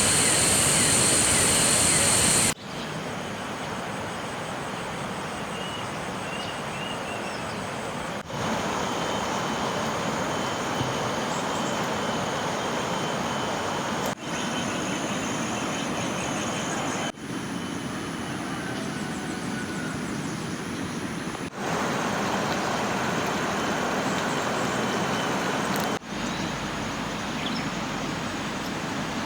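Steady rushing noise of water, in a series of short clips joined with abrupt cuts; the first couple of seconds are louder and brighter. A few faint high chirps come through now and then.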